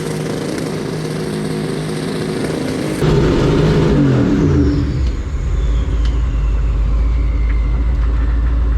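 Turbocharged V8 engine running steadily. About three seconds in the sound cuts to the engine's pitch falling as the revs drop, then settles into a deep, steady rumble with a faint high whistle sliding down in pitch.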